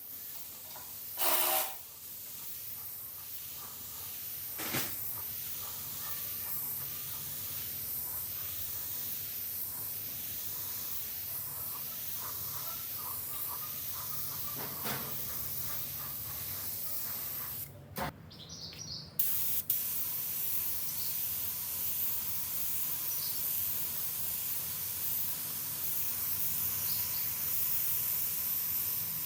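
Steady spraying hiss, broken briefly about eighteen seconds in, with a few faint clicks.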